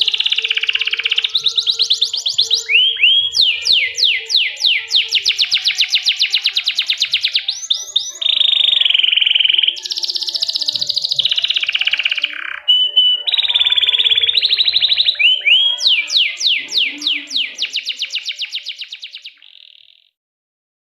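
Domestic canary singing: fast trills of rapidly repeated notes alternating with steady held rolls, fading out near the end.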